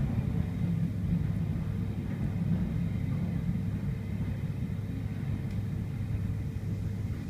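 Sydney Trains S-set double-deck electric train running at speed, heard from inside the carriage: a steady low rumble of wheels on track with a faint steady hum.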